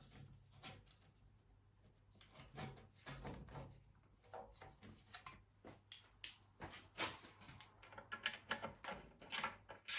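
Faint, irregular clicks and knocks of hand tools working on a lawn mower's bolts, coming thicker in the second half.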